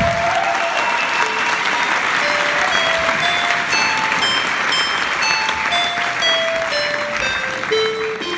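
Audience applauding, with a keyboard playing single notes that step slowly downward over the clapping.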